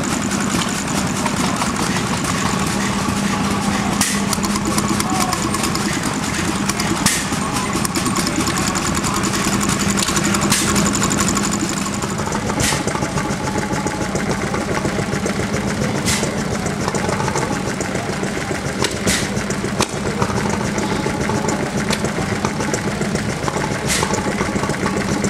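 Small vintage stationary engines running steadily, with occasional sharp cracks over the engine beat. About twelve seconds in the sound changes and a high steady whine drops out.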